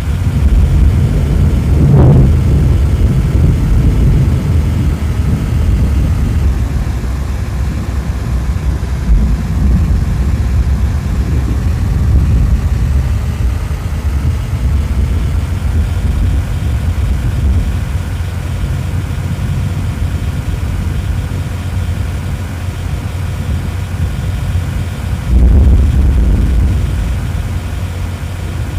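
A car driving, heard as a steady low engine and road rumble, with brief louder swells about two seconds in and again near the end.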